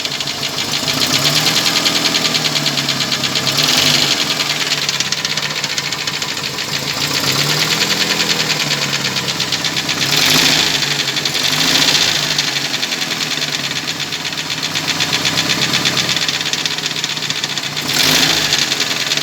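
UMZ-4216 four-cylinder petrol engine running with a fast, regular metallic knock, its speed rising and falling several times. The mechanic takes the knock for a piston pin knock.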